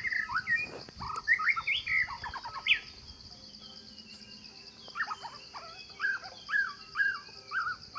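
Birds chirping: a burst of quick rising and falling chirps, then after a pause a run of similar chirps about two a second, over a steady high-pitched hiss.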